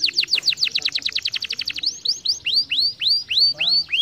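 Domestic canary singing: a fast trill of quick downward-sweeping notes, about a dozen a second, that changes about halfway through to slower notes that each rise and then fall, about three a second.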